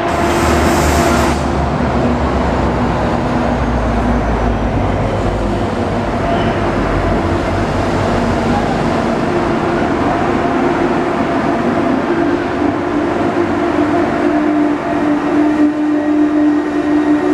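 Israel Railways double-deck train pulling out of the platform. A short hiss of air sounds as the doors move, then the wheels roll and a steady low rumble and hum carry on as the coaches pass close by.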